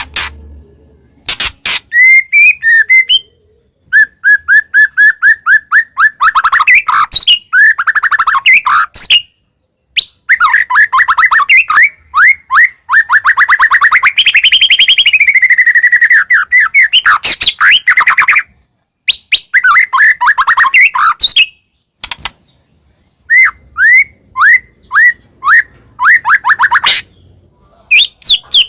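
White-rumped shama (murai batu) singing loudly in phrases of rapid repeated whistled notes and trills. The phrases are broken by short pauses, and one longer unbroken phrase comes in the middle.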